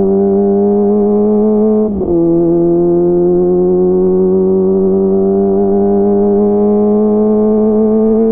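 Kawasaki ZX-25R's inline-four engine through a DX Generation GPR full-system aftermarket exhaust, pulling under way with a slowly rising pitch. About two seconds in the note dips briefly, as on an upshift, then it climbs again.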